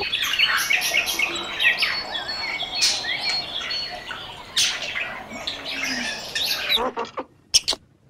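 Birds chirping and whistling in quick succession, many short calls overlapping, with a few sharp clicks near the end.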